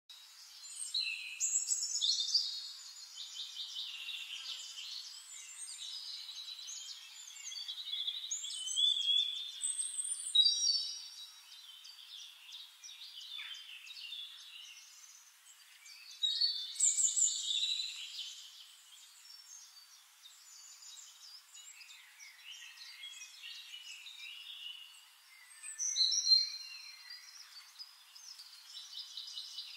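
Birds singing: varied high chirps, trills and whistled sweeps in loud phrases every several seconds, with quieter chirping between.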